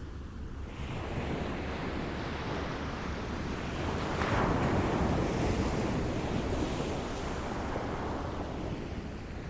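Small waves lapping at a shore, a steady wash of water that swells to a peak midway and then eases off.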